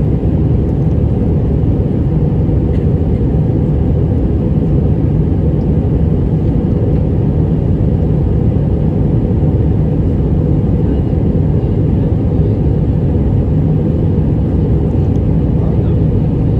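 Steady low roar of an Airbus A319's engines and rushing air, heard from inside the passenger cabin during the climb after takeoff.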